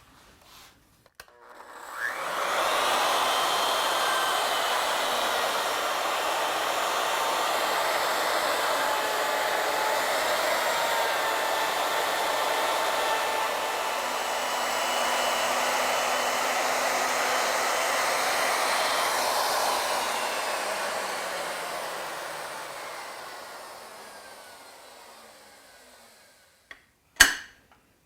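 Router on a Legacy ornamental mill starting up about two seconds in and running steadily as it cuts a taper along a wooden table-leg blank. Near the end it is switched off and spins down, its pitch falling, followed by a single sharp knock.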